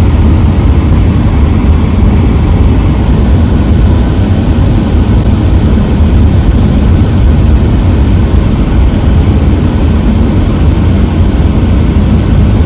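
Car driving on a snow-covered road: a loud, steady low rumble of road and engine noise.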